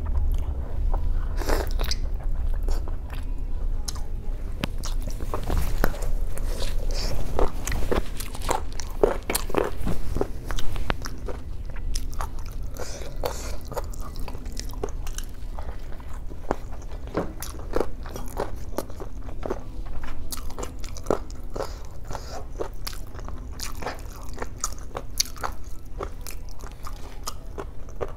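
Close-miked mouth sounds of a person biting and chewing boiled pork knuckle skin and meat, then rice with tomato: many irregular wet clicks and smacks. A steady low hum runs underneath.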